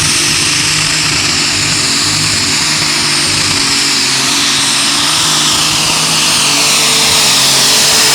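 Light super stock pulling tractor's turbocharged diesel engine running flat out during a pull, with a loud, high, steady turbo whine over the engine noise.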